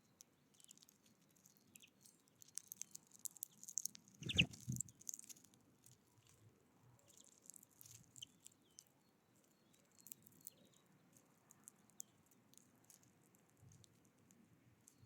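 Faint, irregular ticking and pecking of small wild birds at a feeder, with a few faint short chirps. One louder brief flutter or knock about four seconds in.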